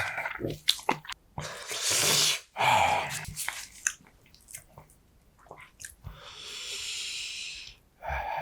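Close-miked chewing with wet, squishy mouth sounds and small clicks as food is eaten, broken by a few longer hissing swells, the longest lasting about two seconds near the end.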